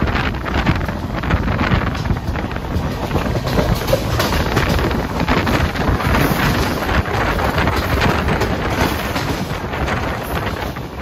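Heavy wind buffeting the microphone over the steady rumble and rattle of an express train's coach running at speed on the rails.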